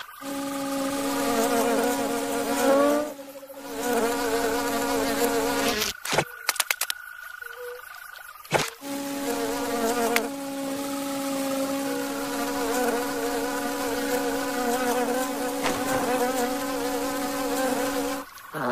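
Cartoon insect wing-buzz sound effect: a steady pitched buzz whose tone wavers slightly. It drops out briefly about three seconds in, and again for a few seconds near the middle, where a few sharp clicks sound.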